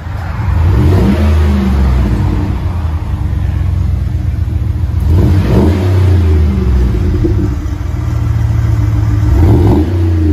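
Engine revved three times and settling back between revs, heard through an exhaust with a Magnaflow 18-inch-body muffler, which gives a deep tone.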